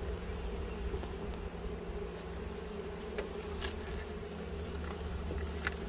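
Honeybees buzzing as a steady hum around an open hive with its frames being inspected, with a few faint clicks.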